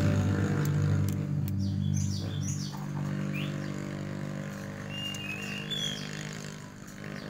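Birds chirping in short high calls, over the sustained low notes of background music dying away. A few light clicks about a second in.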